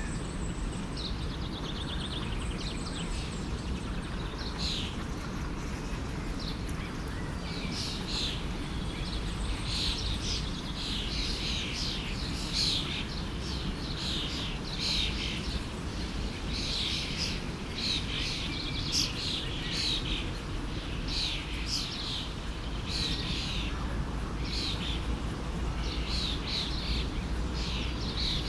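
Many short bird chirps over the steady rush of a forest stream. The chirping gets busier after the first several seconds.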